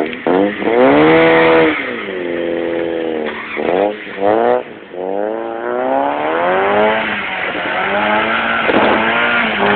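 1992 Mazda Miata's 1.6-litre four-cylinder with a wide-open exhaust, revving hard through the gears: the pitch climbs, holds and drops several times, with two short sharp throttle blips about four seconds in.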